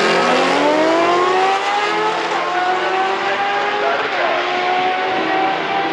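Drag-racing engine at full throttle pulling hard through the gears: the pitch drops at a gear change and then climbs, with further shifts about two and four seconds in.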